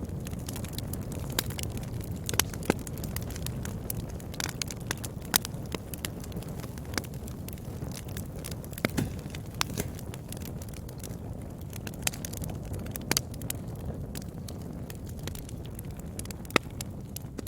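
Wood fire burning in a fireplace: a steady low rumble of the flames with frequent, irregular crackles and pops, and a few louder snaps.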